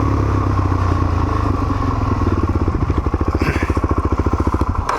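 Motorcycle engine running, dropping from a steady drone to a slow, even throb at low revs as the bike eases off.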